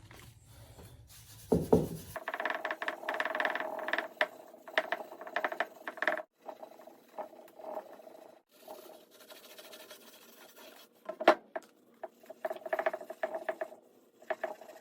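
Fine 0000 steel wool scrubbing the painted steel fuel tank of a Yamaha DT100 in quick, irregular strokes, rubbing down surface rust to bare metal. A single sharp knock about eleven seconds in.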